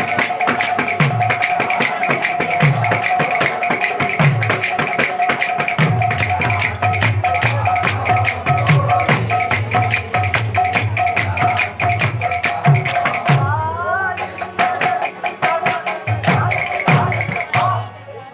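Instrumental kirtan music: small hand cymbals clash in a fast, steady rhythm over deep hand-drum strokes that fall in pitch, with a held high note above them. The music stops abruptly near the end.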